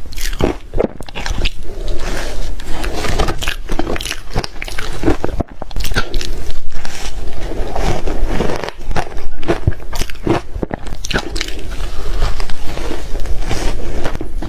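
Biting and chewing soft, refrigerator-frozen reshaved ice with big bites, close to the microphone: a steady run of irregular loud crunches.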